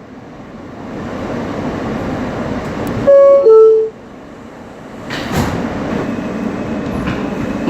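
R160 subway car's door chime, two loud tones stepping down in pitch about three seconds in, signalling that the doors are closing. Around it is the car's steady interior noise, rumble and hiss, with a rushing swell a couple of seconds later.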